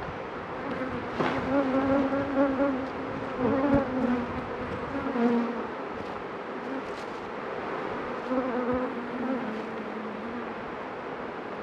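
Honeybees buzzing around an opened hive, with single bees flying close past in passes that swell and fade. The buzzing is loudest during the first half and again briefly near the end.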